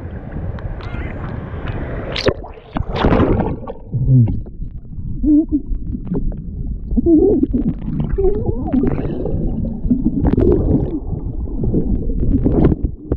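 Sea water churning and gurgling around the microphone in the surf, a muffled low rumble with warbling, bubbly tones and a few sharp splashes.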